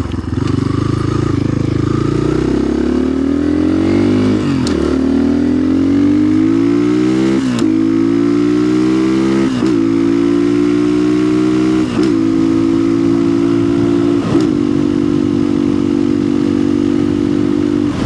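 2025 Orion RXB250XL dirt bike engine pulling up through the gears: the pitch climbs and dips briefly at each of about five upshifts. It then holds a steady pitch at speed near the end.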